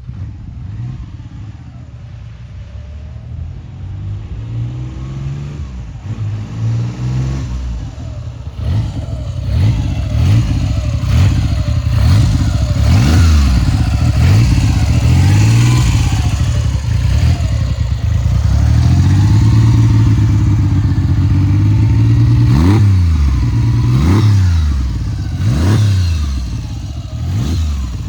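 1969 BSA Rocket 3's three-cylinder engine idling, then revved. At first it is blipped up and down, then held at higher revs through the middle, then given a string of quick, sharp throttle blips near the end.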